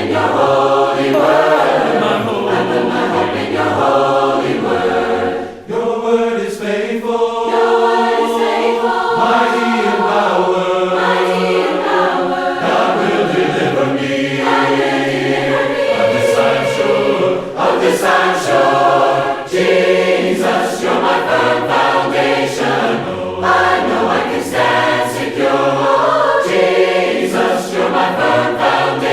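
A choir singing a worship song in several-part harmony, unaccompanied, with sustained sung notes throughout.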